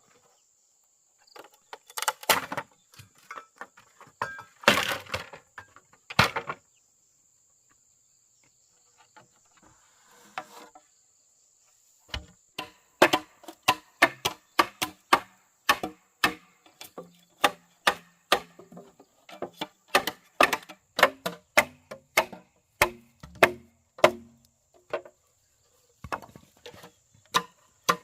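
A hand tool strikes wood in sharp blows: a few separate strikes, then after a pause a steady run of about two blows a second. A high, steady insect drone runs underneath.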